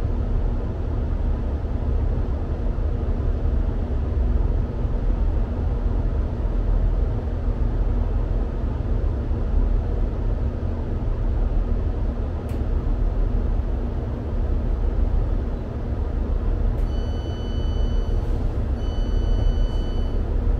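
Interior of a GWR diesel multiple unit standing at a station platform: a steady low engine rumble and hum. About seventeen seconds in, the door warning starts, a high beep repeated in one-second spells.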